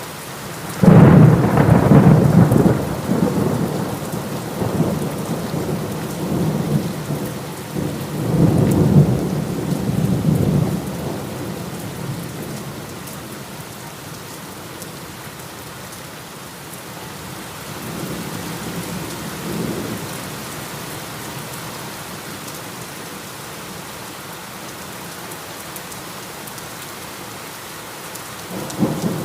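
Steady heavy rain with thunder: a loud thunderclap about a second in that rolls away over several seconds, a second rumble around eight seconds in, a fainter roll later, and another starting near the end.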